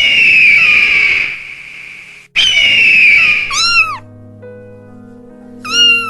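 Two long, loud, harsh screeching animal cries, each falling in pitch, followed by short arching cat meows, one just after the second cry and another near the end, over soft background music.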